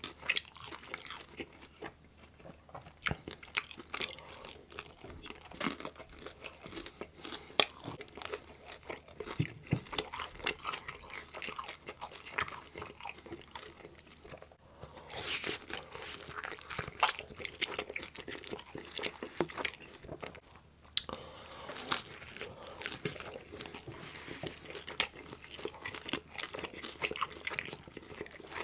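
Close-up eating sounds of a meat-loaded pizza: crunchy bites and wet chewing, with irregular crackles and a few sharper snaps.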